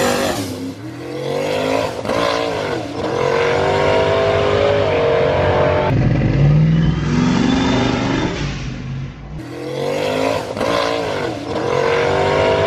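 Single-turbo 2014 Ford Mustang GT V8 revving hard in a run of rising sweeps, each climb in pitch breaking off and starting again, with one slower, lower rise in the middle.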